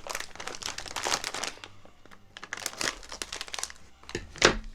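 Crinkling of a snack bag of corn puffs being handled, in irregular crackles, with one sharp louder knock near the end.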